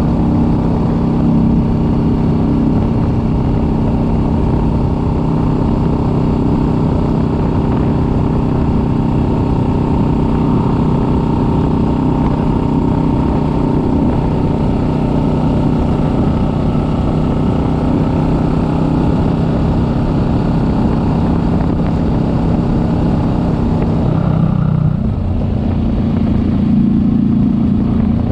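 Kawasaki Vulcan S 650's parallel-twin engine running at a steady cruise, heard from on the bike with wind and road noise. Near the end the engine note dips briefly, then climbs again.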